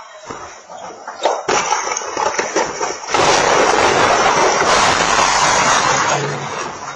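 Tornado wind blasting the microphone: a dense, loud roar that comes in suddenly about three seconds in and eases near the end. Scattered knocks and crashes come before it.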